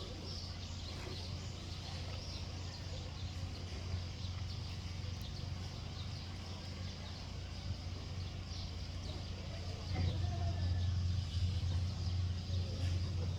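Outdoor ambience: a steady low rumble, louder from about ten seconds in, with faint, scattered high bird chirps over it.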